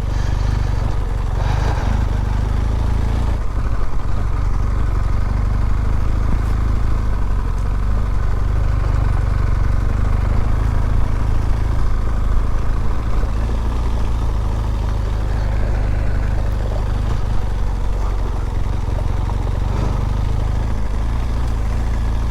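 BMW R1200GS boxer-twin engine running steadily at low revs on a slow dirt-road ride, heard through a helmet microphone as a continuous low rumble.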